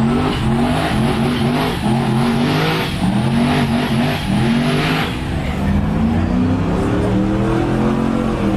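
A car engine revving up and down, with tyres squealing during the first five seconds or so, as a car does donuts.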